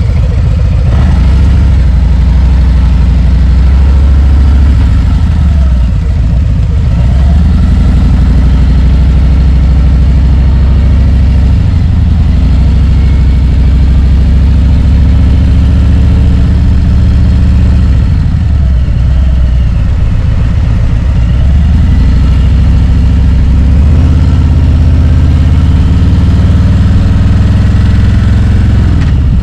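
Harley-Davidson Road Glide's V-twin engine running loud and steady under way at low speed. Its deep note dips and picks up again a few times.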